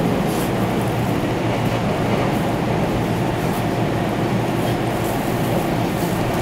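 Steady running noise of a 489 series electric limited express train at speed, heard inside the passenger car, with a few faint clicks over it.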